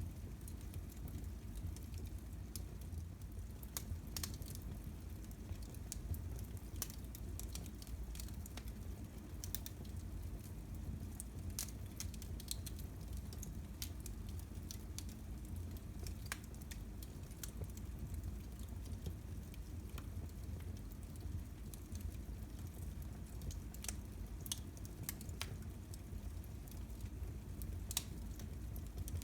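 Fire in a fireplace crackling: irregular sharp pops and crackles, some louder than others, over a steady low rumble of burning.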